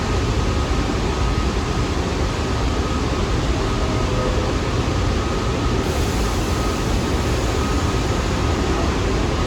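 New York City subway train running along the track through the station, a steady loud rumble with a faint high steady tone above it.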